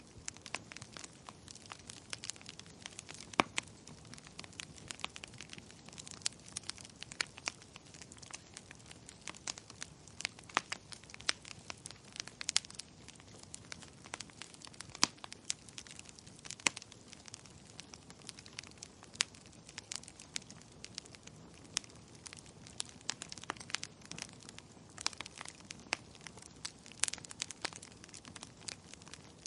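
Wood fire crackling in a fireplace: irregular sharp pops and snaps, several a second and some louder than others, over a faint steady hiss.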